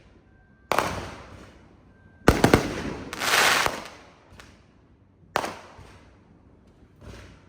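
Fireworks going off: a sharp bang about a second in, a quick cluster of cracks a little past two seconds followed by a longer crackling spell, another bang past five seconds and a fainter one near the end, each dying away in a short echo.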